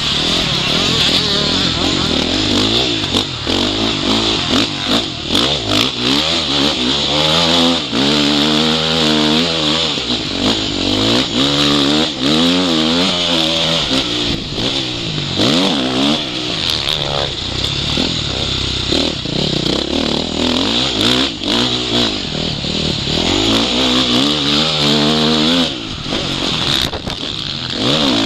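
Motocross bike engine revving hard and easing off again and again as it is ridden around a dirt track, the pitch climbing and dropping back many times. It is heard up close from the rider's goggle-mounted camera, with a steady hiss over it.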